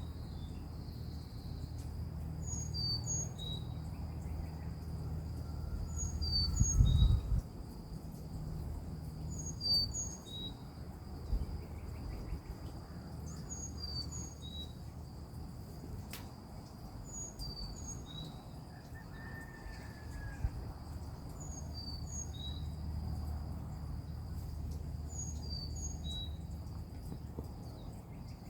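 A small bird repeats a short, high phrase of falling chirps about every three to four seconds, over a steady high drone of insects. A low rumble underneath swells briefly about seven seconds in.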